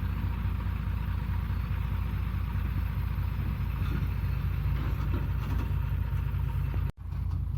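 Dump truck engine running steadily at idle, with a deep even throb. The sound breaks off for an instant near the end.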